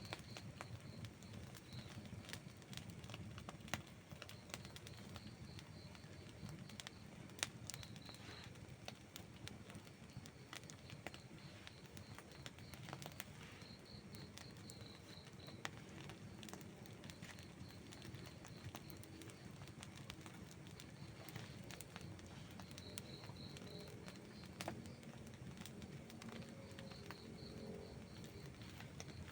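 Outdoor wood campfire crackling faintly, with scattered small pops and a few sharper ones standing out. A faint high pulsing chirp comes and goes behind it.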